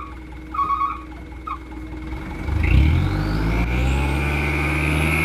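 Mitsubishi Canter dump truck's diesel engine revving up about two and a half seconds in and holding at raised speed, with a whine rising in pitch. Before that, a few short electronic beeps.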